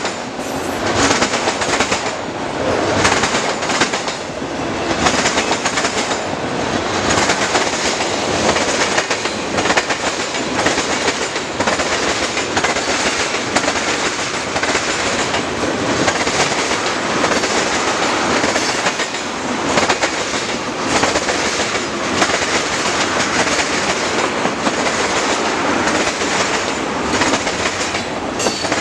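Canadian National freight train's autorack, tank and covered hopper cars rolling past close by: steel wheels clicking over rail joints in a steady run of clacks over the noise of wheels on rail.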